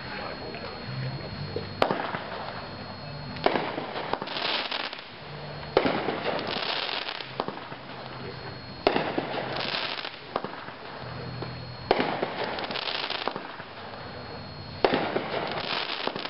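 A consumer firework cake, 'Tough Stuff' (9 shots), firing a shot about every three seconds. Each shot is a sharp report followed by a couple of seconds of crackling hiss.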